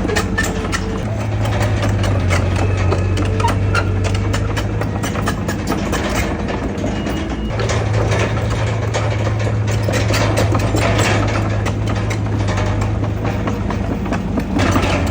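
Heavy diesel engine of an earthmoving machine running steadily, its low drone stepping in pitch about a second in and again about seven and a half seconds in, with many short clicks and rattles over it.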